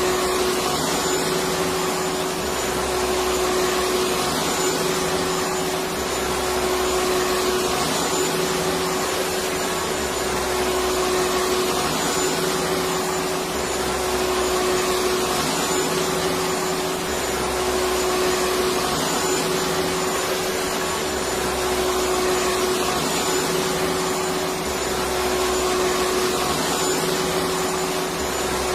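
Electric vacuum cleaner running steadily: an even rush of air with a constant motor hum.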